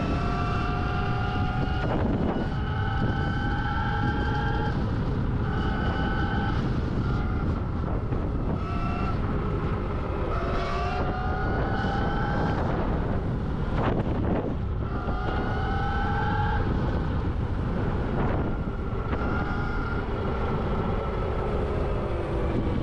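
Electric dirt bike motor whining while riding on a trail, the whine rising in pitch in short stretches as the bike speeds up, then dropping out when the throttle eases. There is a steady rush of wind on the microphone and a few short knocks from the bumpy ground.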